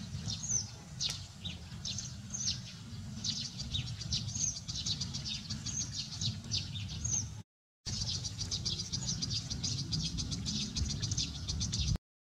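Small birds chirping rapidly and repeatedly in short, high notes, many dipping in pitch, over a low steady rumble. The sound cuts out completely for a moment twice, once about halfway through and once near the end.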